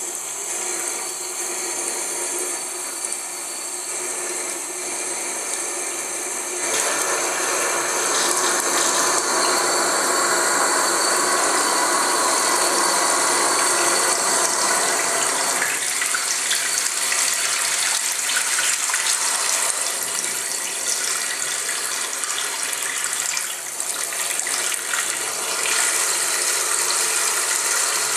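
A Tres Cuadro basin mixer tap with water running through it, making a loud, continuous noise over the rush of water that gets louder about seven seconds in. The noise is a fault that started after installation and that neither the supplier nor the contractor could cure.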